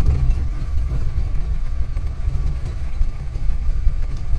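Diesel car's engine and road noise heard from inside the cab while climbing a rough, muddy mountain road: a steady, uneven low rumble.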